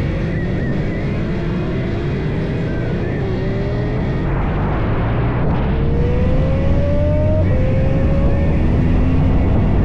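Motorcycle engine running under way, its pitch rising in several long glides as it accelerates, over a steady low rumble and wind noise.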